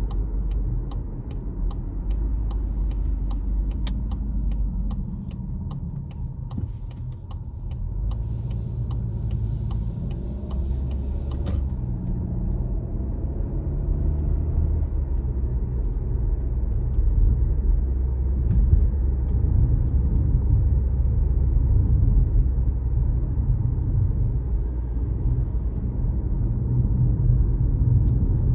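A car driving, its engine and tyres making a steady low rumble. A run of quick ticks comes in the first few seconds, and a brief hiss comes about eight seconds in and stops near twelve.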